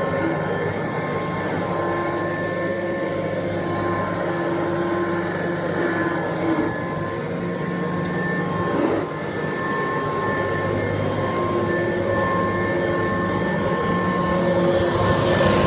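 Kirby Dual Sanitronic 80 upright vacuum cleaner running steadily with a constant motor whine while vacuuming, the pitch and level wavering slightly as it is pushed back and forth and getting louder near the end.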